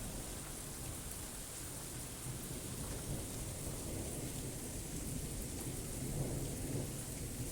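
Steady, hissing rain with a low rumble of thunder underneath, the rumble swelling a little in the middle of the stretch.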